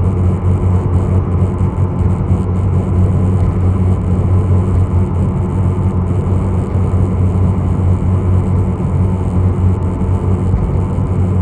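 Engine drone of a small passenger ship under way: a steady low hum with a faint high whine above it.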